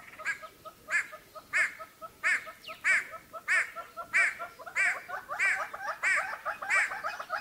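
Birds calling: a loud call repeated about every two-thirds of a second over a faster chatter of quieter chirps, growing busier towards the end.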